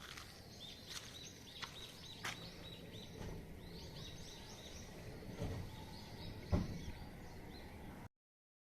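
Outdoor wood fire crackling with sharp pops, the loudest near the end, while small birds chirp over and over in the background. The sound cuts off suddenly just before the end.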